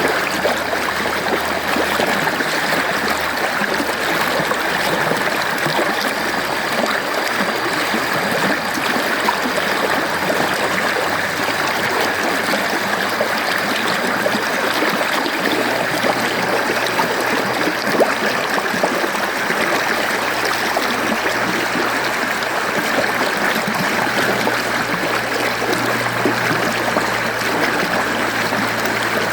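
Mountain stream flowing steadily over rocks, a continuous rushing with trickling and gurgling.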